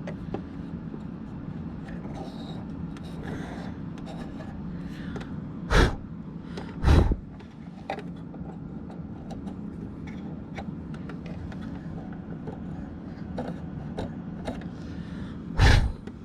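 Faint clicks and scrapes of hand work on an opened sewing machine over a steady low hum, broken by three short, loud thumps: two close together near the middle and one near the end.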